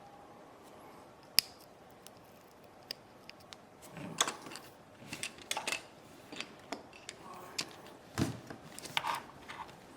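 Small sharp clicks, taps and brief scrapes of hand tools and fingers working on a 6th-generation iPod nano during disassembly: one click about a second in, then a busy run of irregular taps and scrapes through the second half.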